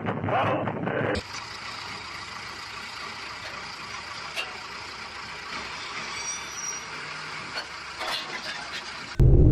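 Shouting voices that cut off about a second in, then steady traffic noise with a few faint clicks. Near the end a loud, low vehicle rumble starts suddenly.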